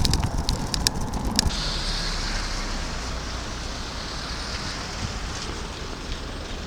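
Steady low wind rumble on the microphone with road noise, while a few sharp clicks sound in the first second and a half.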